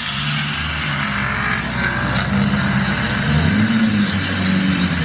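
Pickup truck engine running steadily, its pitch rising a little about three and a half seconds in, over a steady hiss.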